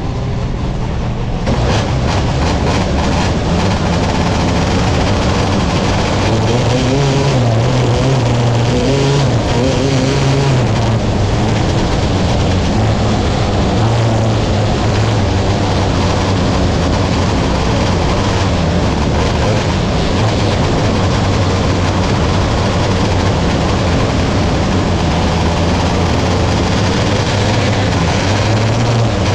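Sprint car engines racing on a dirt track: a loud, continuous engine din that jumps up about a second and a half in, its pitch rising and falling throughout.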